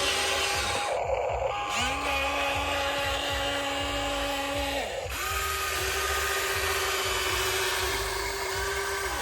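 Hydraulic RC excavator's electric motor and pump whining in bursts as its controls are worked: each whine rises, holds steady for a few seconds and falls away, three times, the middle one lower in pitch.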